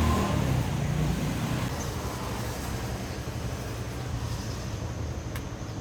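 Steady low rumble of outdoor road traffic.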